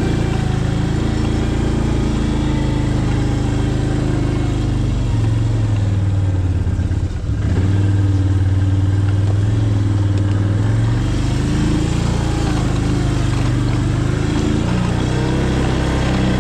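A small vehicle engine running under way over rough ground, its pitch shifting up and down. It dips briefly about seven seconds in, then runs louder and higher for a few seconds.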